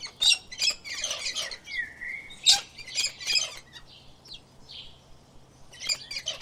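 Small birds chirping in quick clusters of high notes, with a short whistled glide among them and a pause of about two seconds before another burst near the end.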